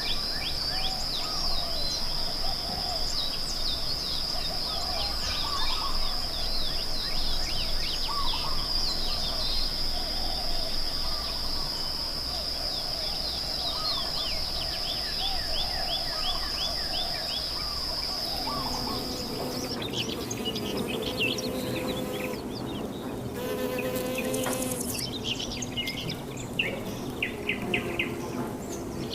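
Natural outdoor ambience: a steady high insect buzz, like crickets, with many birds chirping over it. The buzz stops about two-thirds of the way through, and the birds keep calling with some lower sounds after it.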